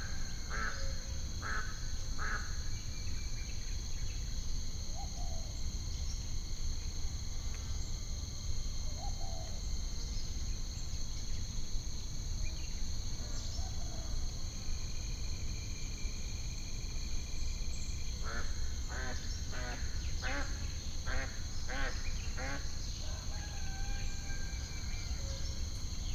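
Nature ambience: a steady high chirring of insects, with birds calling in short repeated notes, a few at the start and a quicker run of calls over several seconds about two-thirds of the way through, over a steady low rumble.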